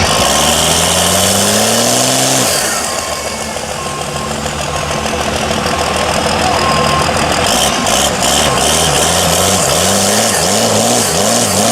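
Big mud truck engine revving: the pitch climbs for about two and a half seconds, drops back and runs steadily, then from about nine seconds in the revs rise and fall over and over, a little under twice a second.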